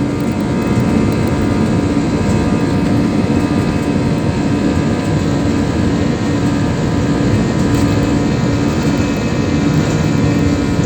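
Steady jet engine and airflow noise heard inside an Airbus A320's cabin, a constant rumble with several steady tones running through it.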